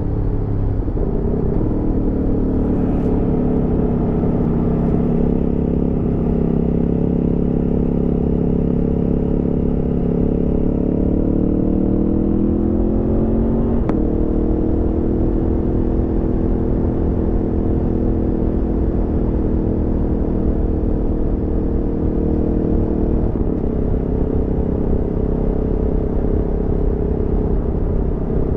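Aprilia Tuono V4 motorcycle's V4 engine under way. The engine note drops about a second in and holds steady, then climbs for a few seconds under acceleration and falls abruptly at an upshift about halfway through, after which it runs steady at cruise. A steady low rumble lies underneath throughout.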